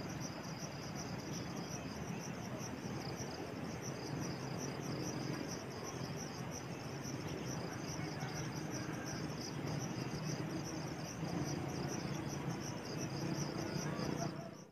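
Insects, crickets by their sound, chirping in a steady, evenly repeating high-pitched pulse, over a low, even background rush.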